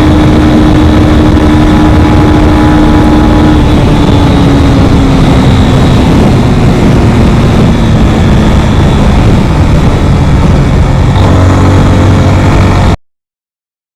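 Yamaha FZ25's single-cylinder engine running at a steady pace, then its pitch falling gradually as the motorcycle slows. The sound cuts off suddenly near the end.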